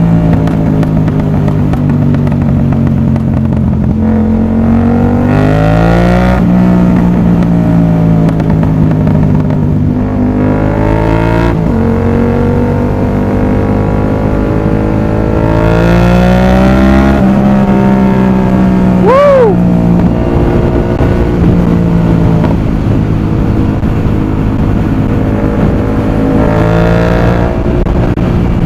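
Yamaha MT-07's parallel-twin engine through an aftermarket exhaust, heard from the rider's seat, pulling up and easing off several times so that its pitch rises and falls. A short high chirp sounds about nineteen seconds in.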